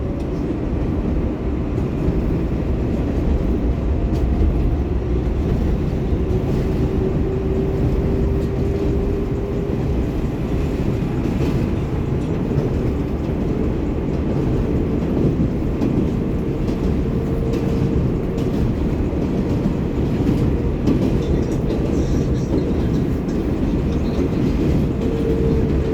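R188 subway train on the 7 line running between stations, heard from inside the car: a steady rumble of wheels on rail with a motor whine that slowly rises in pitch.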